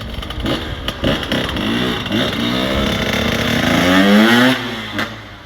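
A 125cc pit bike engine revving, its pitch and loudness climbing steadily to a peak, then falling away quickly about four and a half seconds in.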